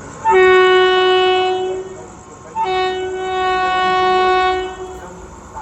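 Train horn sounding two steady blasts, a shorter one and then a longer one after a brief gap.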